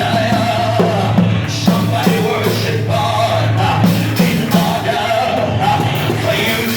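Live church praise music: a band with a steady bass line and regular beat, with singing over it.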